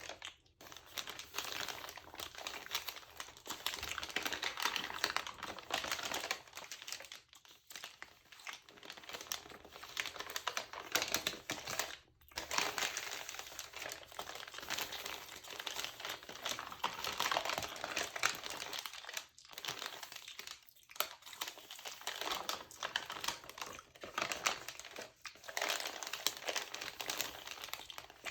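Close-up crinkling and crackling of a magazine's textured glossy paper, with fine clicky mouth sounds mixed in. It runs almost without a break, stopping briefly a few times.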